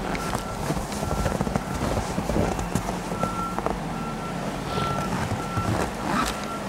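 A vehicle's reversing alarm beeps again and again as a single tone, over a low steady rumble of traffic. Footsteps crunch in snow.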